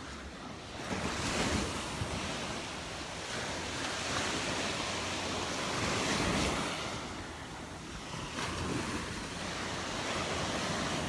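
Gulf of Mexico surf washing onto the beach in broad rushes that swell and ease, loudest about a second in and again a few seconds later, with wind on the microphone.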